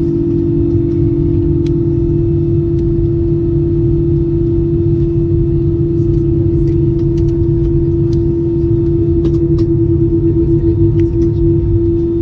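Airbus A320 cabin noise with the engines running: a steady drone made of one constant humming tone over a low rumble, with a few faint clicks.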